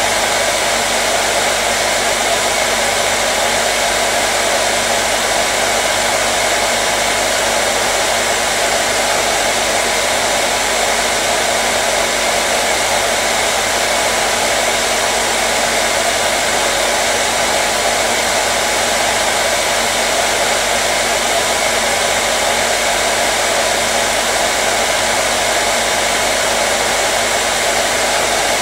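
Hair dryer running continuously at a steady speed: an even blowing rush with a faint motor hum underneath.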